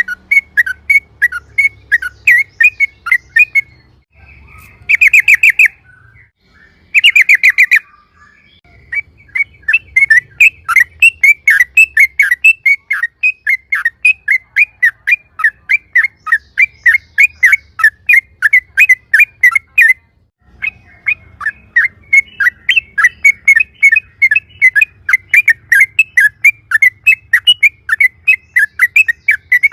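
Yellow-vented bulbul (trucukan) singing a long, fast run of chirping notes, about four or five a second. About five and seven seconds in, the run gives way to two short buzzy trills, and it breaks off briefly two-thirds of the way through.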